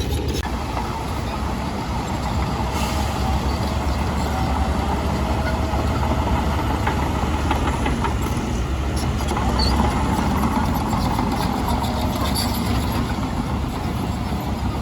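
Heavy diesel earthmoving machinery running steadily, a low rumble with scattered short clanks and squeaks over it.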